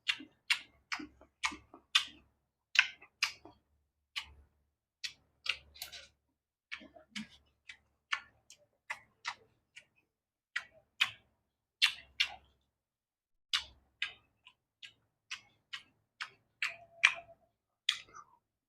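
Crisp, crunchy chewing of raw carrot close to the microphone, a run of sharp crunches at about two to three a second with short pauses.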